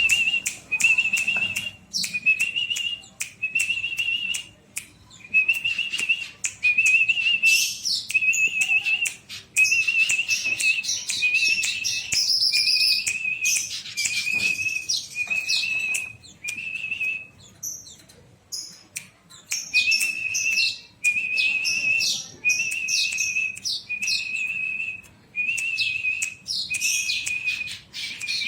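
Weaver bird (manyar) singing: a long run of short buzzy notes, roughly one a second, mixed with rapid high ticking and chattering, with a short break about two-thirds of the way through.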